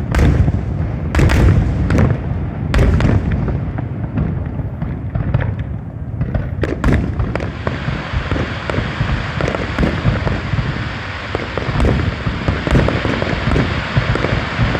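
Fireworks display: a few sharp bangs over steady low booming in the first half, then from about halfway a dense, steady crackle with the booms going on beneath it.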